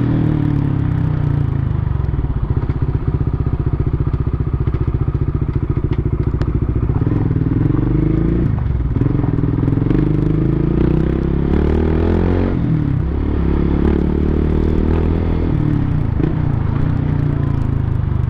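Big motorcycle's engine running while riding, its note climbing with the throttle and dropping sharply twice, about eight and twelve seconds in, as the rider changes gear.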